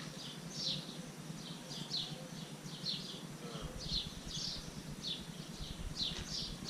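A bird chirping, a series of short high chirps at about two a second. A low rumble comes in about halfway through.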